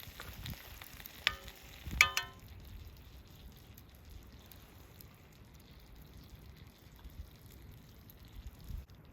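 Food sizzling in a frying pan over a campfire, with two ringing metallic clinks of a utensil against the pan about a second and two seconds in; the sizzle then quietens.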